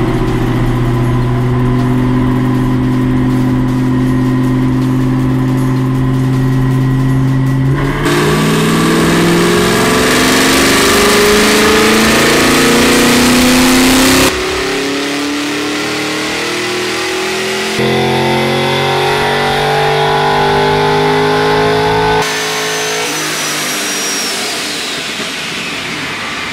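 Procharger F1A-supercharged LS3 V8 of a 2014 Camaro SS run on a chassis dyno: first held at a steady speed, then pulled under load with the engine note climbing steadily in pitch, in several spliced runs. Near the end a high thin whine falls away in pitch.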